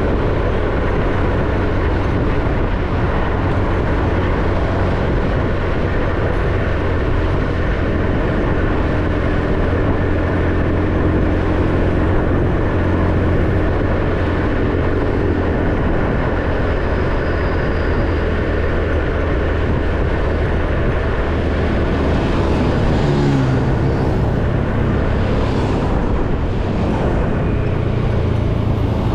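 Motorbike engine running at riding speed under a steady rush of wind and road noise. The engine's pitch steps down and back up about three quarters of the way through.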